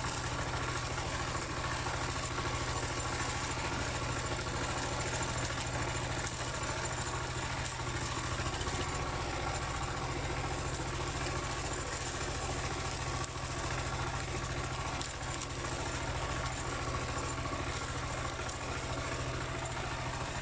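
Dongfeng single-cylinder diesel engine of a two-wheel paddy tractor running steadily, its note shifting slightly about eight or nine seconds in.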